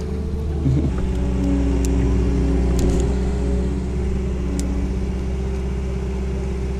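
A motor engine running at a steady pitch, with a few faint clicks over it.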